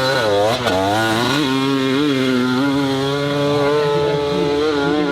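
Dirt bike engine revving hard. Its pitch drops and climbs twice in the first second and a half, then it is held at high, fairly steady revs.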